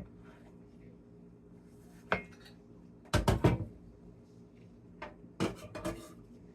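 Kitchen clatter of dishes and utensils being handled: a single knock, then two short bursts of clinking and knocking, the loudest about three seconds in and the other about five to six seconds in.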